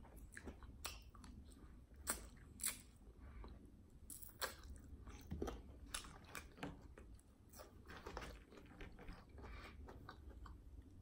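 Close-miked chewing of crispy fried chicken wings, with irregular crunches and crackles of the breading and wet mouth sounds.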